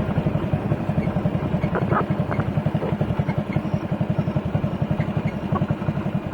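Motorcycle engine running with a steady, rapid, even low beat, plus a few faint ticks.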